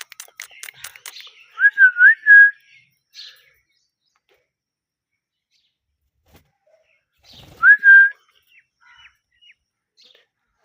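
Pet parrot whistling: two short wavering whistles, one about two seconds in and one near eight seconds, with soft clicks and chatter at the start.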